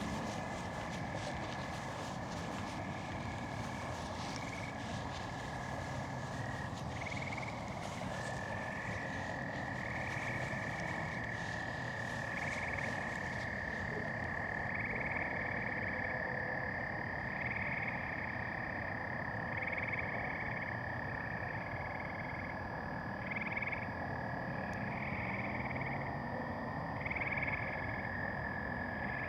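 A spring night chorus of frogs: a long, steady high trill holds throughout, with shorter calls repeating above it about every second and a half. Light crackly rustling, like footsteps, runs under the first half.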